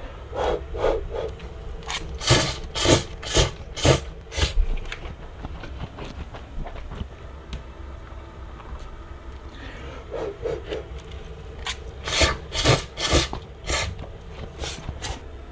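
Scraping strokes of a cooking utensil against cookware or a board, in two runs of quick strokes about two a second: one just after the start and another in the second half.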